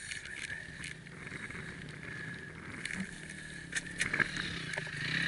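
Dirt bike engine running steadily at low revs, with a few knocks and scrapes near the end.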